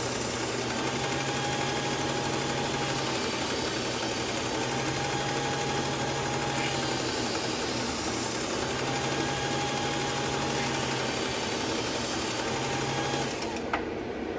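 Powered belt sharpener running steadily while a kitchen knife is drawn across the belt in repeated passes, the hum changing as each pass loads it, to refine the edge. The machine winds down near the end.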